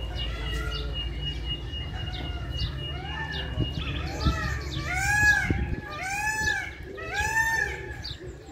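Several birds calling: a chorus of short repeated calls, with three louder calls about a second apart in the second half, over a low rumble.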